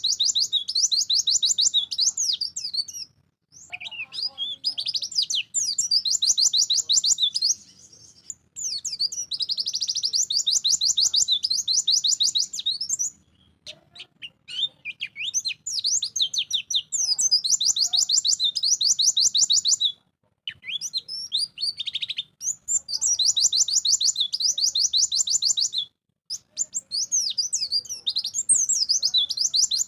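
White-eye (pleci) singing: long bouts of rapid, high twittering trills, several phrases of a few seconds each broken by short pauses.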